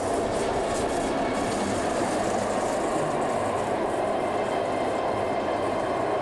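A train of Pullman carriages rushing past close by at speed, a steady rumble and rush of steel wheels on the rails.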